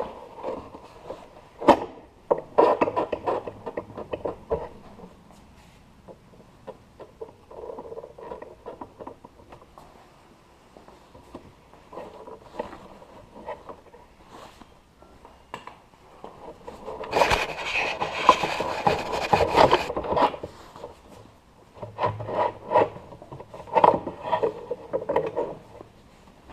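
Bouts of rubbing and scraping with scattered knocks as motorcycle parts are handled and worked loose, loudest for about three seconds past the middle.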